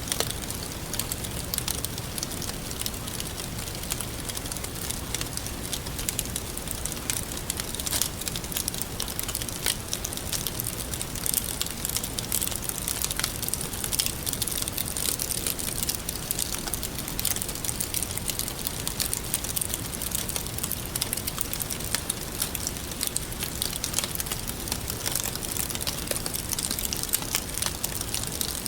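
Wood fire burning with a steady hiss and many small sharp crackles and pops.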